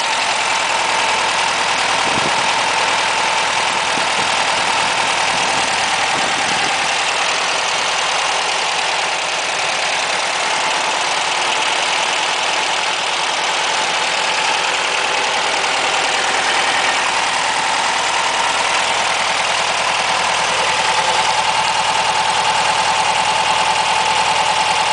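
1963 Volkswagen Beetle's air-cooled flat-four engine idling steadily and smoothly on all four cylinders, not yet fully warmed up after a fresh start on newly adjusted valves.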